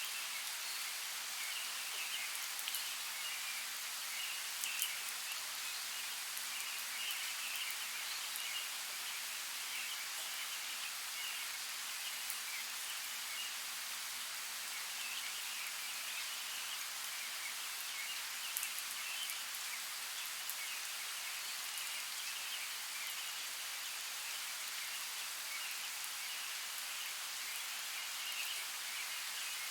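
Steady rain falling, an even hiss with scattered drop ticks, and a faint chirping that comes and goes behind it.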